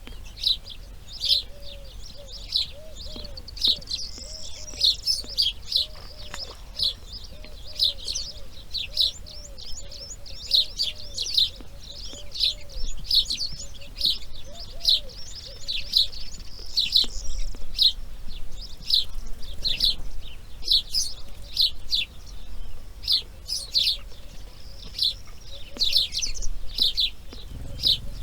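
Birds chirping with short, sharp calls, about two a second, some drawn out into longer high notes. A lower, softer call repeats underneath through much of it.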